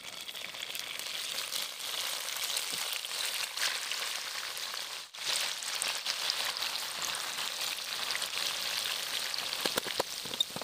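Cubes of firm tofu shallow-frying in hot oil in a pan, crackling and sizzling steadily, with a few light clicks near the end.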